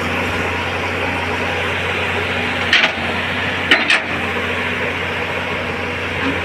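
Caterpillar hydraulic excavator's diesel engine running steadily, with two brief harsh noises about three and four seconds in.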